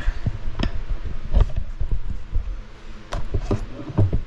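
Irregular knocks and dull thumps of metal engine parts being handled during a Chevy 350 teardown, with several sharper clanks spread through it.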